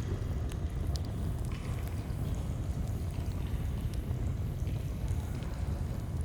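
Steady rush of a flowing stream, with scattered sharp crackles and pops of a campfire.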